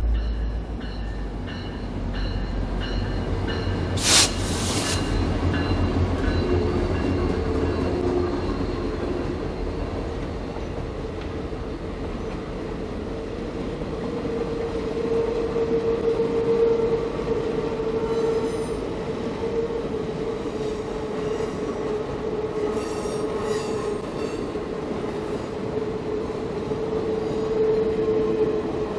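Passenger train rolling past on steel wheels, with a low rumble at first and a sharp bang about four seconds in; from about halfway through, the wheels squeal in a steady high tone against the rails.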